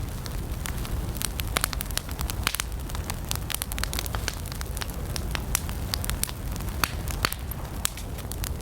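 Wood campfire burning, with irregular sharp crackles and pops several times a second over a steady low rumble of the flames.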